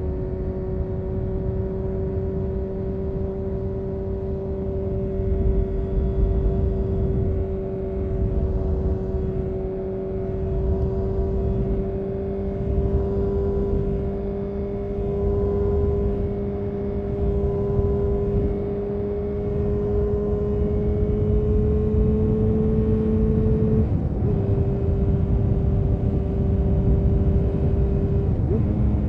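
Honda CBR929RR Fireblade's inline-four engine through an Erion full racing exhaust, held at steady revs that climb slowly under way. The note breaks briefly twice, about 24 seconds in, where the pitch steps down, and again near the end, where it steps back up. A low rush of noise runs underneath.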